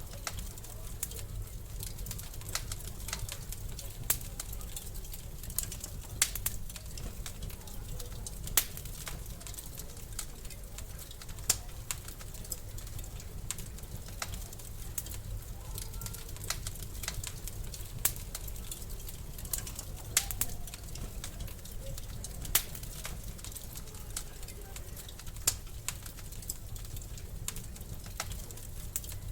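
Wood fire in a fireplace crackling, with irregular sharp pops and snaps, a few louder than the rest, over a steady low rumble.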